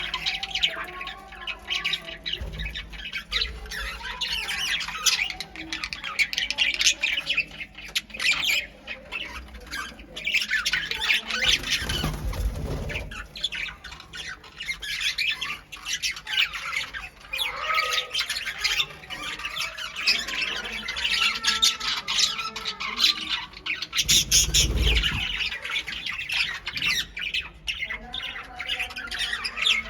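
Pet budgies and cockatiels chattering and squawking nonstop in a lively stream of short chirps and calls, with a few brief low rumbles about two, twelve and twenty-four seconds in.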